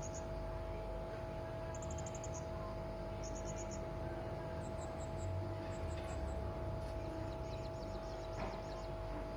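Serindit (hanging parrot) calling: short bursts of rapid, very high-pitched thin chirps, several notes to a burst, repeated every second or so, over a steady low hum.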